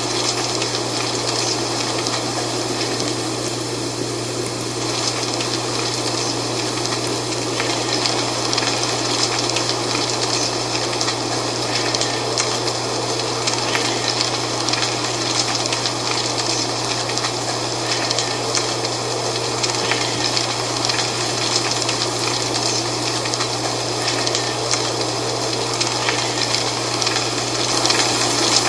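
Wind with dry fall leaves rustling: a steady rushing noise with many small crackles, over a low steady hum.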